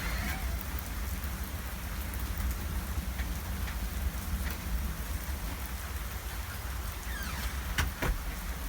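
Heavy rain pouring down in a steady hiss, with a few sharp ticks of drops striking near the end.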